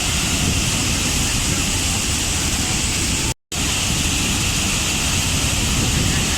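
Waterfall rushing in a steady, loud roar of water noise, cut to silence for a split second about halfway through.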